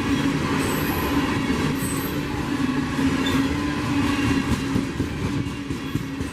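Train rolling past, a steady rumble of wheels on rail, with brief high-pitched wheel squeals about one and two seconds in.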